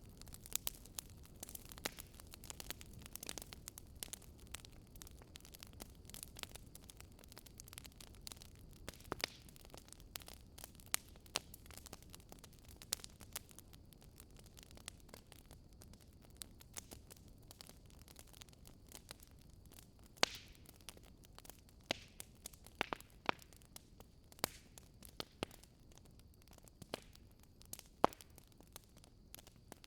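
Wood fire crackling: irregular sharp pops and snaps over a low steady hiss, with a few louder pops in the second half.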